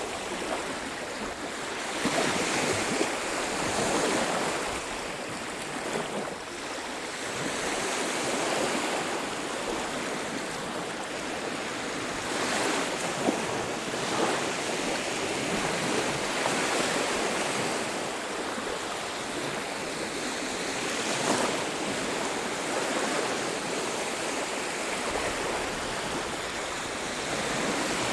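Waves breaking and washing on a beach, a steady surf rush that swells and eases every few seconds, with some wind.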